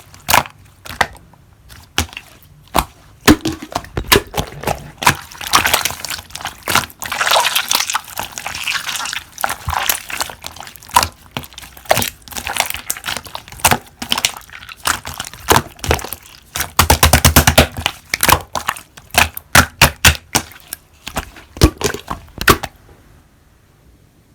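Hands squeezing and poking slime: many sharp pops and clicks of trapped air, with a stretch of denser crackling early on and a fast run of clicks about two-thirds of the way through.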